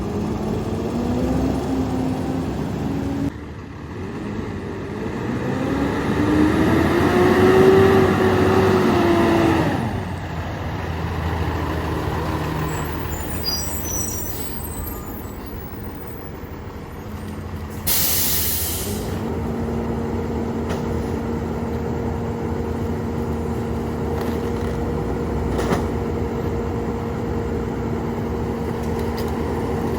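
Peterbilt 348 rear-loader garbage truck's diesel engine and hydraulics, revving up and falling back twice in the first ten seconds. About eighteen seconds in there is a short, loud air brake hiss, after which the truck settles into a steady hum.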